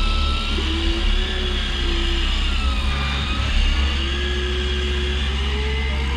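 Land Rover 4x4 engine running and revving while driving off-road, with a whine that rises and falls in pitch.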